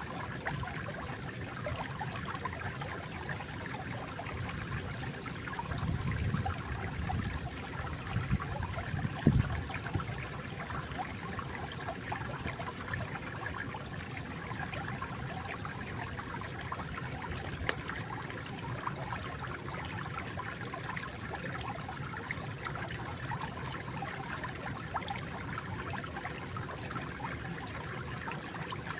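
Flowing water, a stream trickling steadily. A few louder, deeper surges come about six to ten seconds in.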